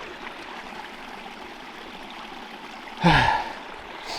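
A small woodland stream running with a steady rush of water. About three seconds in, a man lets out a short, loud sigh that falls in pitch.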